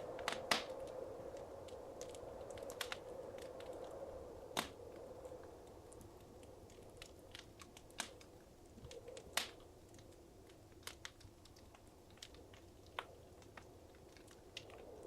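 Wood fire crackling in a fireplace: scattered sharp pops and snaps at irregular intervals over a soft steady hiss of flame.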